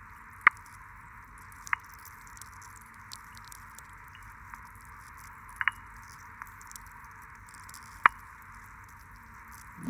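Sea urchin grazing, recorded underwater: a few sharp little cracks as the teeth of its lantern snap shut on the algae, the loudest about half a second in and another near the end, with a double crack in the middle, over a steady hiss.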